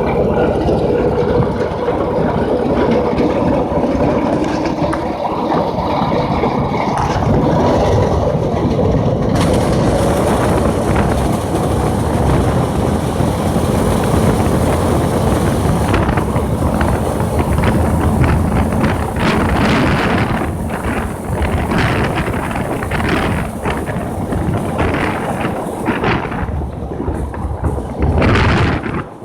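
Go-kart's Predator 6.5 hp single-cylinder engine running at speed, largely buried under heavy wind buffeting on the microphone.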